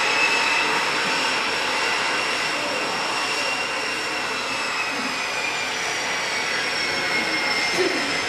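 Jet aircraft engines running with a steady noise and a high whine that slowly falls in pitch.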